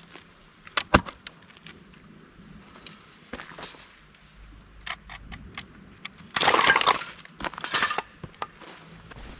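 Scattered clinks and knocks of hard objects being handled, the sharpest just before a second in, with two short bursts of rustling or scraping about six and a half and eight seconds in.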